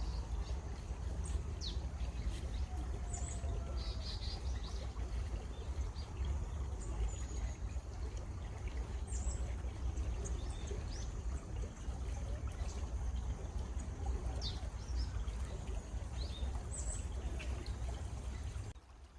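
Flowing stream water with small birds chirping now and then over it. The sound dips briefly near the end.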